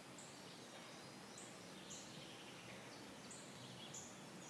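Faint, high-pitched bird chirps, short notes repeating every second or so, over a steady outdoor hiss.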